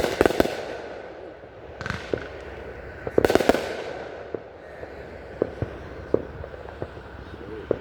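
Aerial fireworks bursting: a loud burst at the start, another about two seconds in and a quick cluster of bursts with crackle around three seconds in, then scattered single sharp cracks.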